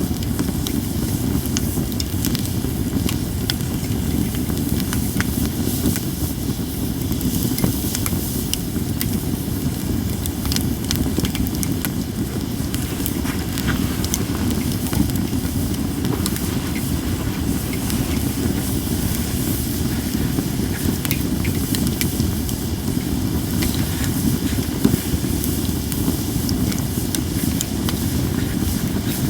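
Japanese cedar campfire burning, with frequent small crackles and pops scattered throughout and a hiss from the burning wood, over a steady low rumble.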